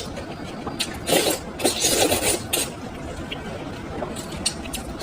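Close-miked eating sounds: wet chewing and slurping with small clicks, busiest from about one to two and a half seconds in.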